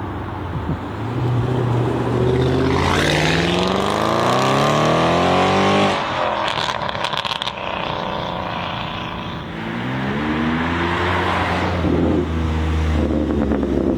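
Supercar engine accelerating hard, its pitch climbing steeply, then cutting off suddenly about six seconds in with a burst of sharp crackles. It then climbs again and holds a steady high note near the end.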